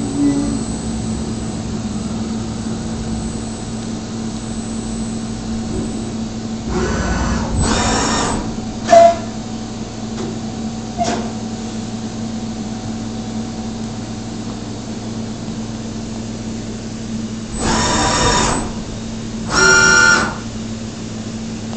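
DMU 65 milling machine running with a steady hum. Two louder, buzzing bursts of a second or two each break in about a third of the way through and again near the end, along with a few short sharp knocks.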